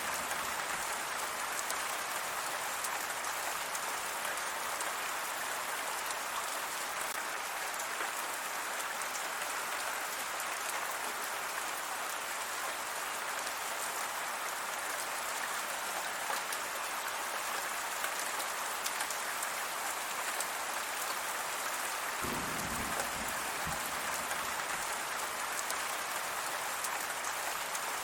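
Steady rain falling, an even hiss flecked with the ticks of single drops striking a surface. A brief low rumble rises under it near the end.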